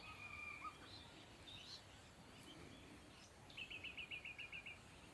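Near silence with faint birdsong: a short whistled call near the start, then a quick run of about ten chirps near the end.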